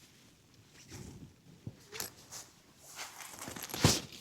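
Close rustling and scuffing of fabric and gear being handled, with a few small knocks and a louder sharp rustle near the end.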